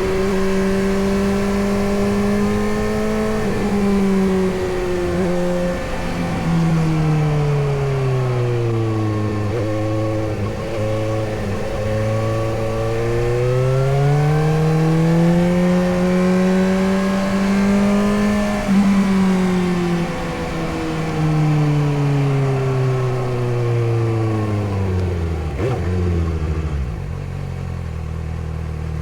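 Suzuki GSX-S750's inline-four engine on the move: a steady engine note that drops as the bike slows and rises again as it speeds up. Near the end the note falls once more and settles into a low, steady idle.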